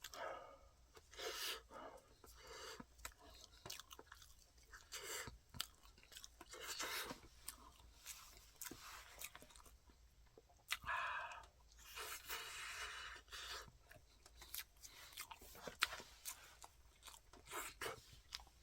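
A person chewing and eating a cooked sweet potato close to the microphone: irregular soft mouth noises with small crunches and clicks.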